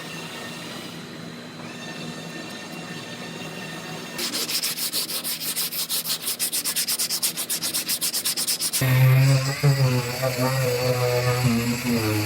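Sanding on a car's metal body panel: a fast, even run of rasping strokes that starts about four seconds in. A louder, droning power tool with a wavering pitch cuts in about nine seconds in.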